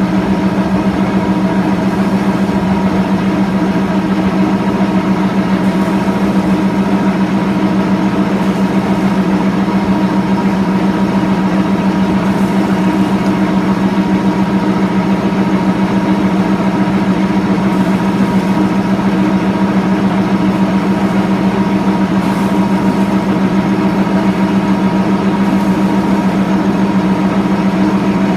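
An engine running steadily at constant speed with a strong, even hum.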